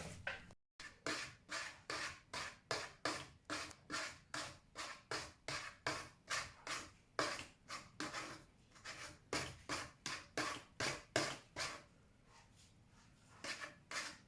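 A cat scratching, a steady run of rasping strokes about three a second, stopping about twelve seconds in, with a few more strokes near the end.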